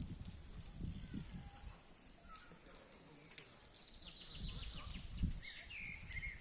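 Birds chirping, with short rising and falling calls that grow busier in the last second and a half, over a steady high hiss and intermittent low rumbles.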